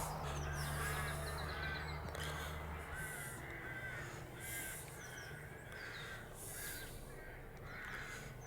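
Crows cawing over and over in a quick, continuing run of short calls. A low hum fades out about three seconds in.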